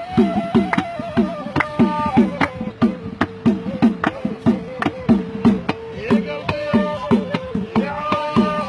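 Gasba reed flute playing a long, slowly sliding melody over a steady hand-drum beat of about two or three strokes a second, each stroke dropping in pitch: traditional Algerian mashyakha music.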